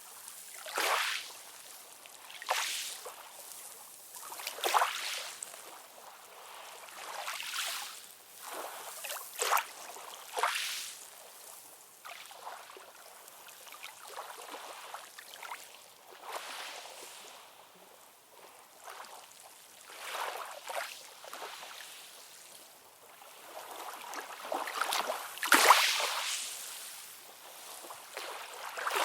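Ocean waves lapping and splashing in irregular surges a second or few apart, mostly hiss with almost no low rumble; the loudest splash comes near the end.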